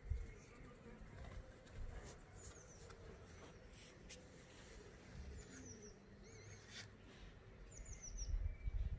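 Small birds chirping faintly, short high calls in little groups of two to four, with a couple of light clicks and low microphone rumble near the end.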